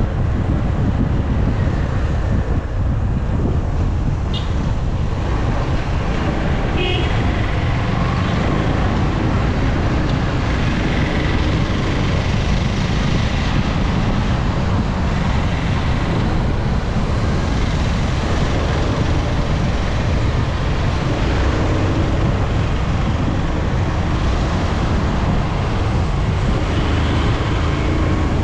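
A motorcycle on the move, heard through a bike-mounted action camera: a steady low rumble of engine, road and wind noise on the microphone. A brief high beep comes about seven seconds in.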